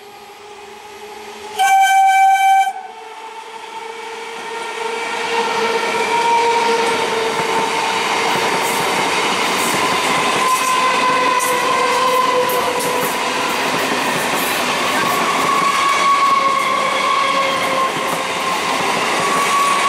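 Howrah–Katwa EMU local train giving one high-pitched horn blast of about a second, then passing close at speed. A rising rumble settles into a loud, steady run of wheel noise with a faint whine and scattered clicks.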